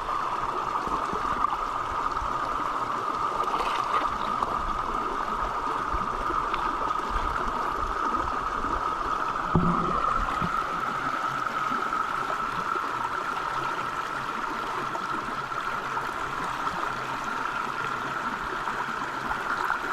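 Creek water running and gurgling steadily, with a brief knock about ten seconds in.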